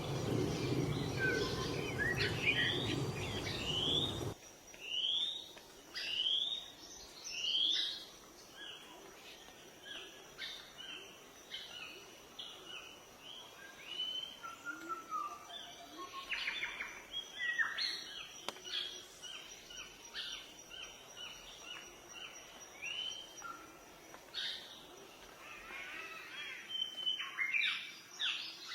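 Waterfall rushing under birdsong, the water sound cutting off suddenly about four seconds in. After that, several forest birds sing and call alone, starting with a run of rising whistled notes about once a second, over a faint steady high tone.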